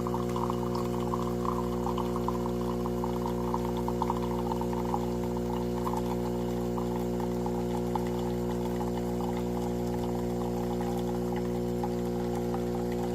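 Philips Series 3300 fully automatic espresso machine dispensing a drink: its pump hums steadily while liquid pours with a crackling fizz, which thins out over the second half.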